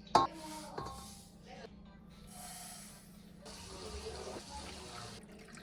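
Water running from a tap in a few spells, with a sharp knock just after the start.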